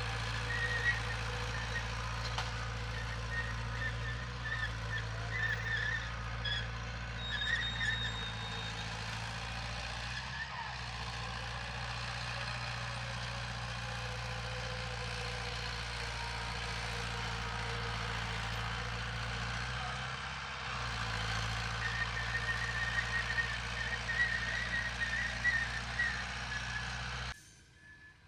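Heavy diesel engine of earthmoving equipment running steadily, with intermittent high chirps or squeaks over it. The sound cuts off abruptly near the end.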